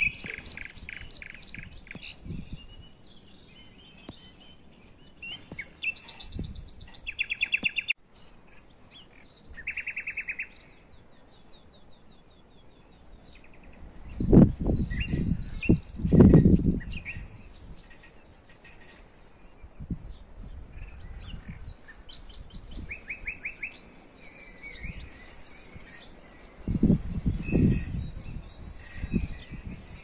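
Small songbirds singing short, fast trills, repeated several times, with a few loud low rumbles in the middle and near the end.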